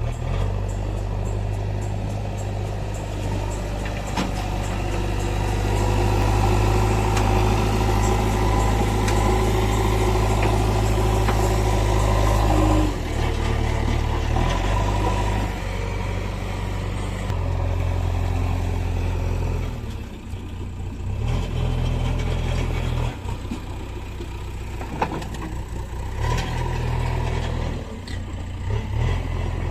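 Heavy vehicle engine running steadily, its low note shifting in steps several times and dropping back near the middle.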